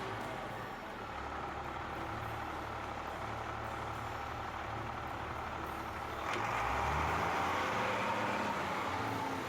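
Heavy vehicle engine running steadily, growing louder about six seconds in as it is revved or put under load.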